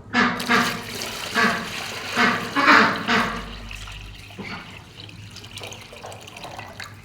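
Domestic fowl calling, with several loud calls in the first three seconds, then quieter rustling and noise.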